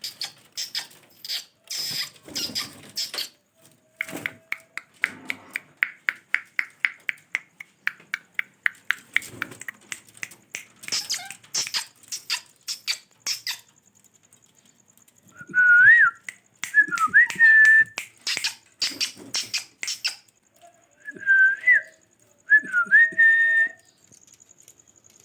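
Pet parrot making a run of sharp clicks and a fast, even train of chirping clicks. After a brief pause it gives several short whistles that rise and fall in pitch.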